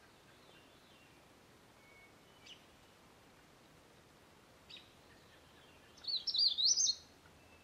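A songbird gives two short high chips, then sings one quick warbling phrase about six seconds in, over quiet woodland background.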